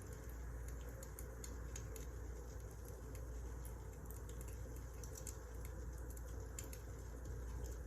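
Firewood burning in a fireplace, crackling with irregular small pops over a steady low hiss.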